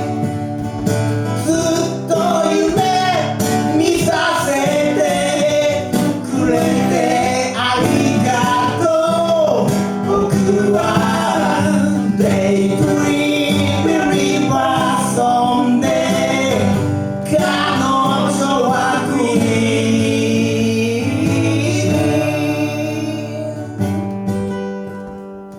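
Live acoustic band music: a male voice singing over strummed acoustic guitar. The song winds down near the end, leaving the guitar ringing.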